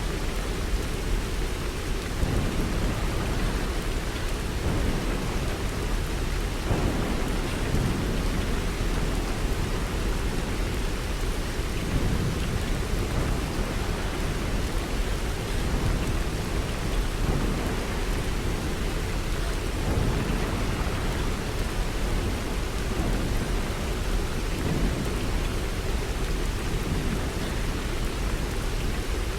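Steady heavy rain with a deep, continuous low rumble underneath that swells and fades slowly.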